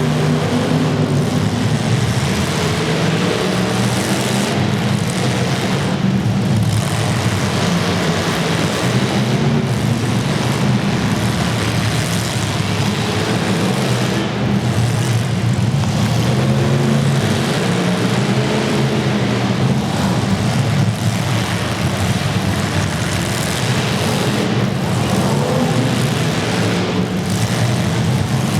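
Several demolition derby cars' engines running hard at once, revving up and down in a continuous loud din.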